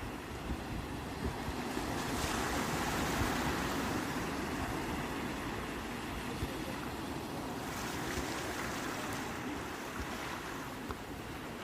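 Sea waves breaking and washing on the shore, a continuous rushing surf that swells twice, about two seconds in and again near eight seconds.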